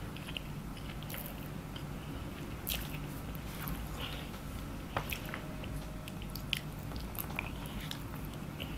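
Chewing and mouth sounds of someone eating egg fried rice, with scattered small clicks from a wooden spoon scooping in the bowl, over a steady low hum.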